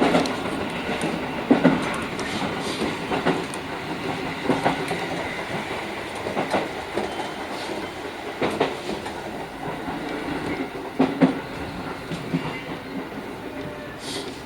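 JR Kyushu 415 series electric train running on the rails, heard from inside the lead car: wheels knocking over rail joints at uneven intervals over a steady rumble, growing quieter as the train slows for its station stop.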